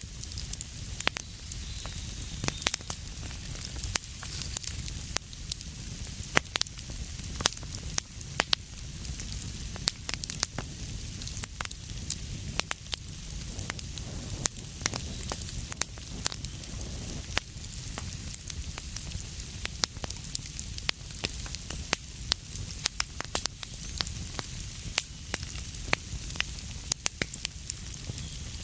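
Wood fire burning in a fireplace, with a steady hiss and low rumble under frequent irregular crackles and pops.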